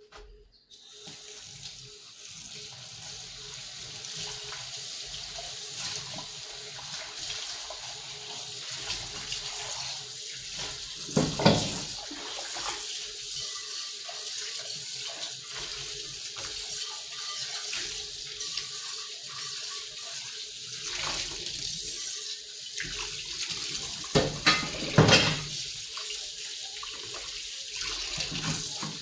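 Water running steadily from a tap into a sink, starting about half a second in, with a few sharp knocks of things handled under it, a couple near the middle and a cluster a little before the end.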